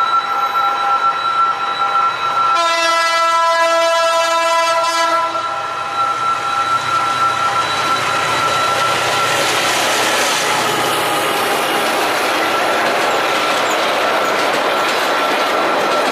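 Vietnam Railways diesel locomotive sounding one long horn blast of nearly three seconds, a few seconds in. Then comes the rising rush and clickety-clack of a passenger train's wheels on the rails as it runs past the level crossing.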